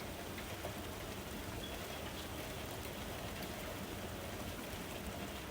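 Steady rain falling on a surface, an even hiss of drops without distinct events, laid under a meditation recording as a background bed.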